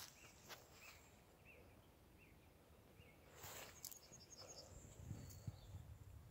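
Near silence with faint bird chirps repeating every half second or so, a brief rustle about three and a half seconds in, and a quick run of high bird notes just after it.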